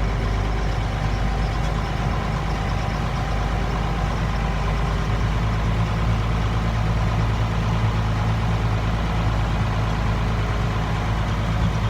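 Case 5140 tractor's 5.9 Cummins six-cylinder diesel engine running at a steady speed, a low even drone with no revving.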